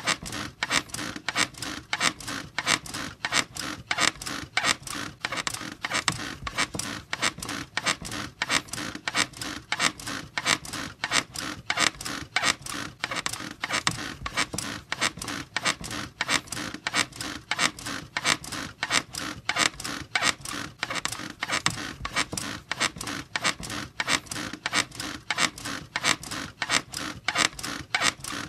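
A squeaky bed creaking over and over in a steady, even rhythm, about two squeaks a second.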